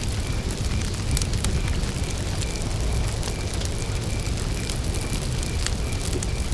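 Wood campfire burning with a steady low rumble and frequent sharp crackles and pops. A cricket chirps throughout in an even rhythm, a few short high chirps a second.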